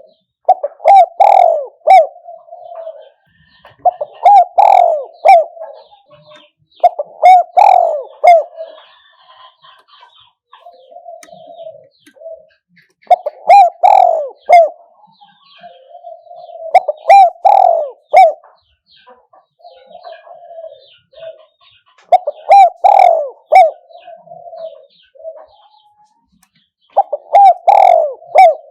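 Spotted dove cooing in repeated phrases: seven loud bursts of several coos each, spaced about three to five seconds apart, with softer, lower coos between them. It is the decoy-dove call that Thai trappers play or keep to lure wild spotted doves.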